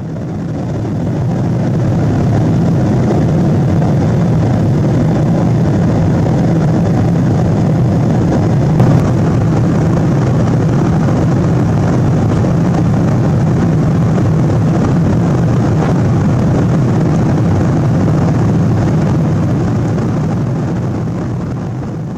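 Steady rumble and rush of a Boeing 777-200 in flight, heard inside the passenger cabin: engine and airflow noise. It fades in at the start and out at the end, with a single small click about nine seconds in.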